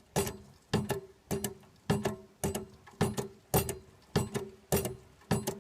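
Hand pump of an exhaust blow-out kit being worked steadily, a knock with each stroke about twice a second, about ten strokes in all. It is pumping water into the exhaust to push out the trapped air.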